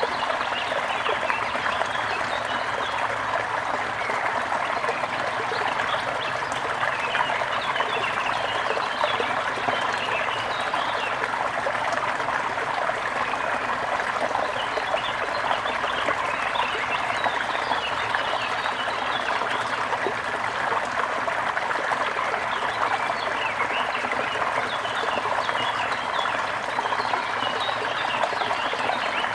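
Trickling stream of water running steadily, with many small birds chirping over it throughout.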